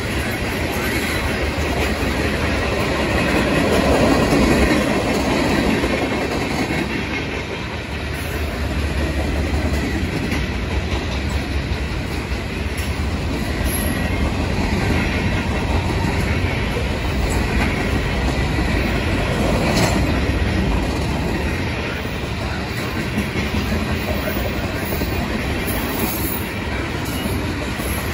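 Freight train cars (tank cars and covered hoppers) rolling past on steel wheels, a steady rolling noise that swells about four seconds in and again near twenty seconds.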